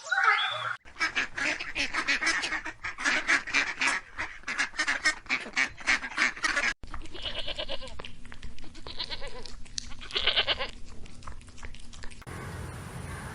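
Waterfowl calling: a dense run of rapid, overlapping calls, then after a cut a few separate, louder calls.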